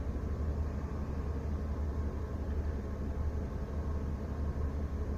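Van engine running steadily at a raised idle, held up so its 90-amp alternator can supply a 1500-watt inverter powering an electric space heater. A low, even rumble with no change in pitch.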